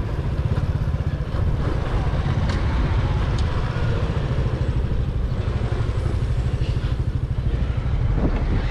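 Motorcycle engine running steadily while the bike is ridden, its exhaust pulses close and even.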